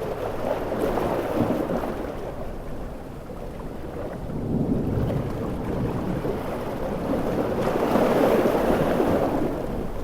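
Large sea waves surging and breaking in slow swells of noise, the loudest building near the end, in a steady mix with heavy rain.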